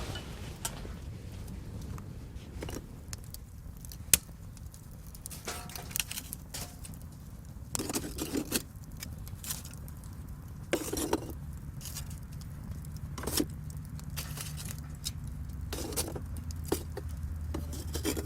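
Scattered light clinks, taps and knocks, with one sharp snap about four seconds in and short clusters of rattling, over a steady low rumble.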